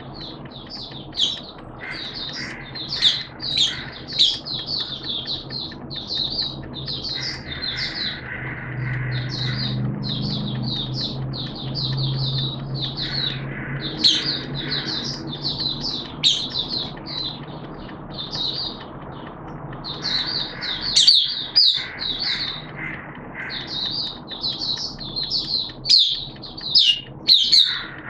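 White-eye (mata puteh) in full song: a rapid, continuous run of high-pitched twittering notes with only brief pauses. A low hum sits underneath for a few seconds in the middle.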